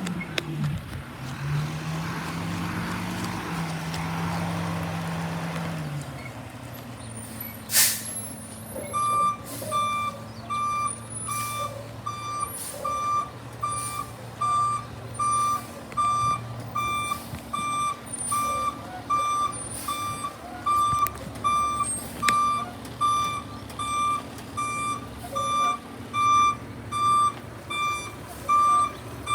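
Garbage truck engine running and changing pitch, a short air-brake hiss, then the truck's backup alarm beeping steadily, about one and a half beeps a second, over the engine as it reverses.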